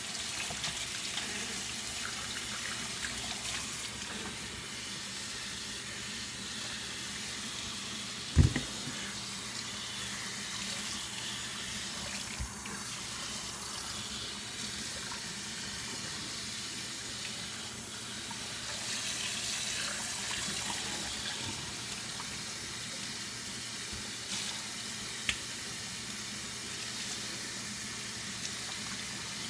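Water running steadily from a tap while shampoo from the first wash is rinsed out of the hair. A single sharp low thump sounds about eight seconds in, with a couple of faint clicks later.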